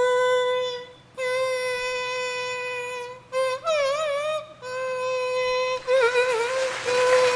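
A mimicry artist's voice holding one plain, steady sung note, broken into four long stretches. The pitch wavers in the middle stretch and again briefly later on. This is the bare 'empty' tone, with nothing put into it, that he shapes into instruments and voices.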